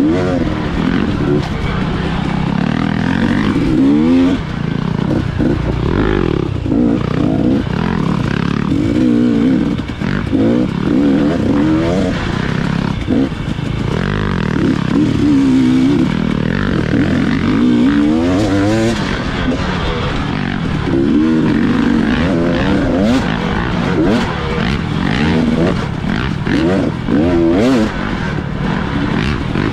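Dirt bike engine revving, its pitch rising and falling again and again every second or two as the throttle opens and closes on the trail.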